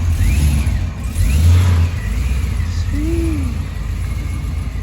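Car engine revving: a deep rumble that swells about a second in, with a high whine rising and falling in pitch over it.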